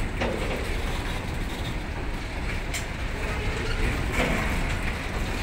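Covered goods wagons of a long freight train rolling past: a steady rumble of wheels on rail, with a few sharp clicks and knocks.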